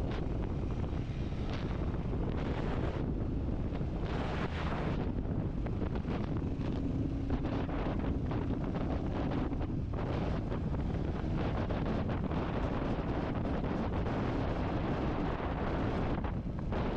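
Wind buffeting the microphone of a moving motorcycle in steady gusty rumbles, with the Royal Enfield Classic 350's single-cylinder engine running underneath.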